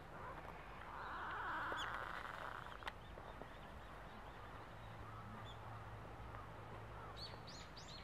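Birds calling in the open air: a louder call about a second or two in, scattered high chirps, and a quick run of high chirps near the end.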